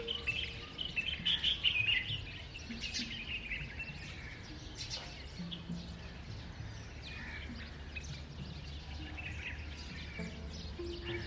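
Birds chirping and calling over a steady low hum, busiest in the first two seconds and sparser after.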